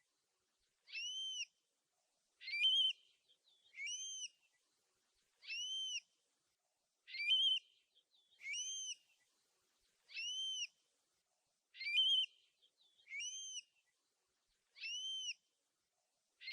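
Curlew calling: a clear whistled call that rises and falls, repeated about every one and a half seconds, some calls starting with a short upward slur.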